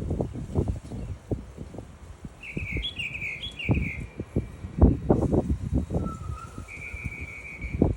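Small birds calling: a quick run of about four down-slurred chirps about three seconds in, a short lower note, then a brief rapid trill near the end. Irregular low thumps underneath are the loudest sound.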